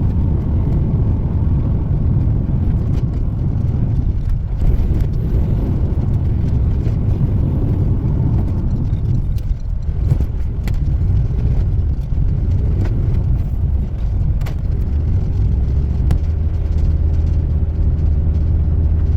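Car driving, heard from inside the cabin: steady low road and engine rumble, with a few light clicks. A steadier low engine hum takes over near the end.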